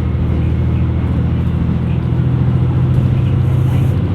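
Diesel engine of a KiHa 127 series railcar running under power, a steady low drone that grows slightly louder and then eases off right at the end.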